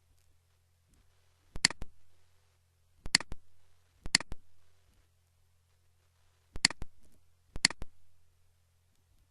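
Computer mouse button clicked five times at uneven intervals, each click a quick double snap of press and release, over a faint low electrical hum.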